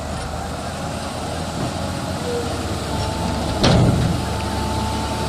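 Heavy machine's diesel engine running steadily, with a single clunk about three and a half seconds in and a thin steady whine from about three seconds on.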